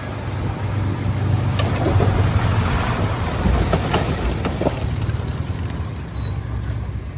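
Heavy diesel engine of earthmoving machinery running steadily, with a few sharp cracks and clanks over it.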